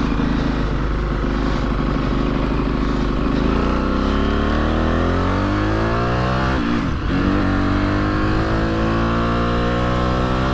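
Aprilia SXV 550 supermoto's V-twin engine under way. It holds low revs for about three seconds, then climbs steadily, drops sharply at a gear change about two-thirds of the way in, and climbs again.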